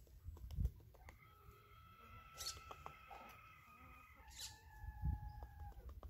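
Campo troupial feeding at a wooden seed tray: scattered small clicks and taps of pecking, with a few dull thumps. Long, steady, high whistled tones run behind it, changing pitch about four seconds in.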